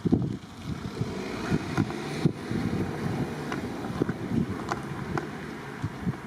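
Wind buffeting the microphone: an uneven, gusty low rumble, with a few faint clicks.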